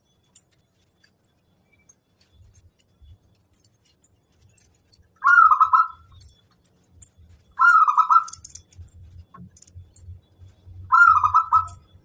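Zebra dove (perkutut) cooing three times, each call a short, fast trilled coo, several seconds apart. A faint low rumble sits underneath in the second half.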